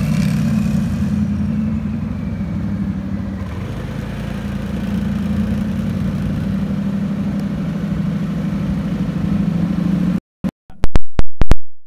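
Twin-turbocharged Audi R8 engine running at low revs with a steady, deep note as the car creeps along. About ten seconds in the sound breaks up into short silent gaps and loud clicks.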